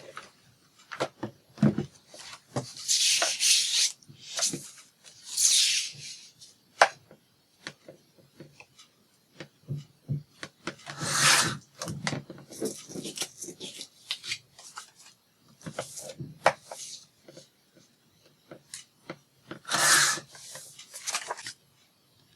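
Paper and craft tools being handled on a work table: several rubbing passes of about a second each, among scattered light clicks and knocks.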